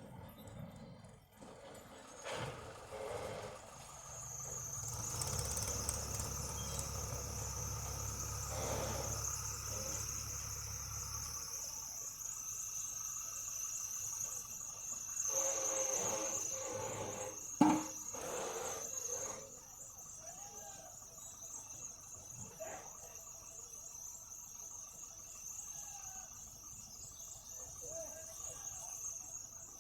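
Insects trilling in one steady high-pitched drone. A low hum sits under it for several seconds in the first half, and one sharp knock comes about eighteen seconds in.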